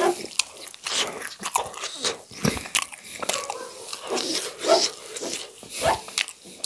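Close-miked chewing of a mouthful of spicy noodles: irregular wet clicks and smacks, several a second.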